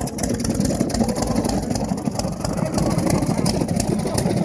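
Hot-bulb engine running fast with a rapid, uneven beat, an engine that has broken loose and is running away.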